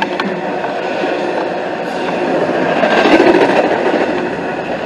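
CSX intermodal freight train rolling past at close range, its well cars rattling over the rails. The noise grows louder about three seconds in.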